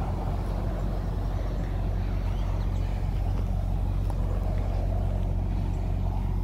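Toyota Soarer's 1JZ-GTE 2.5-litre twin-turbo inline-six idling steadily with a low, even hum.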